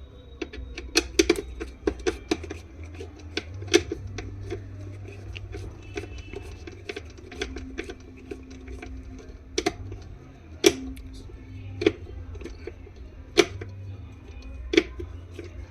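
Irregular sharp clicks and knocks of a screwdriver and small metal screws on a mixer grinder's motor housing as the motor's four mounting screws are taken out, over a steady low hum.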